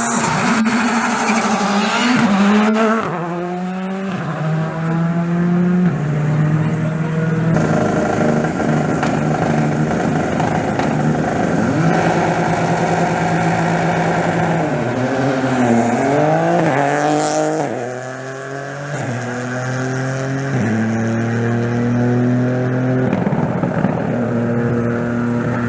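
Rally car engine running at high, held revs, its pitch dipping and climbing back several times as the throttle is blipped and held.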